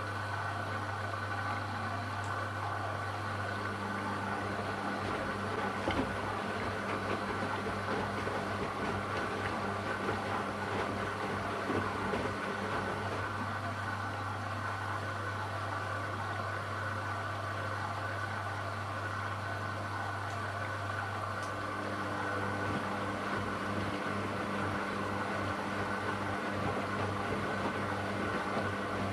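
AEG Lavamat Turbo washer-dryer running through a wash cycle: a steady low motor hum with a noisy churning over it. A second, higher hum tone joins a few seconds in and another about two-thirds of the way through.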